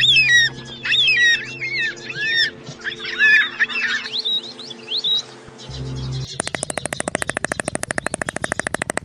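Small birds chirping in quick notes that swoop up and down, over a steady low hum. About six seconds in, the sound cuts abruptly to a fast, even run of repeated notes, roughly ten a second.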